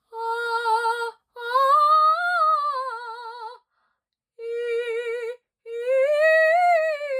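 A woman's classical voice singing a vowel exercise with vibrato: a held note, then a phrase that swells up in pitch and falls back, sung twice. It is a demonstration of tone made with the tongue pressed lightly down and the navel pulled in.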